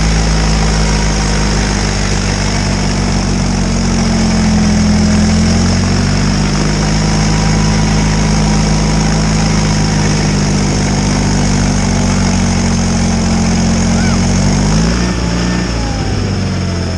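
John Deere 318 garden tractor's Onan twin-cylinder engine running steadily, with a rushing noise over it. Its pitch dips and the sound eases about fifteen seconds in.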